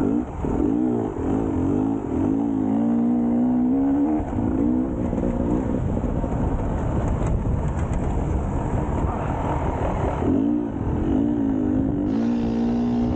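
Enduro motorcycle engine revving as it is ridden off-road, its pitch rising and falling over and over. It is less distinct for a few seconds midway.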